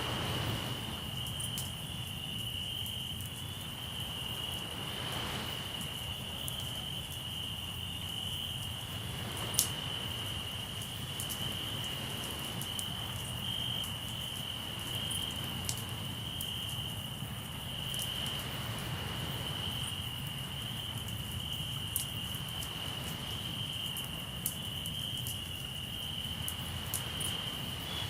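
Crickets chirring steadily in one continuous high-pitched trill, over a crackling campfire that snaps now and then, one pop standing out about nine seconds in. A low rush of sea runs underneath.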